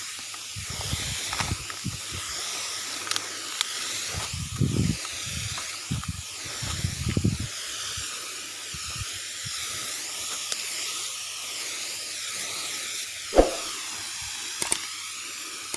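Steady hiss of a small engine-driven grass sprayer running and spraying, with a few low bumps and one sharp knock about 13 seconds in.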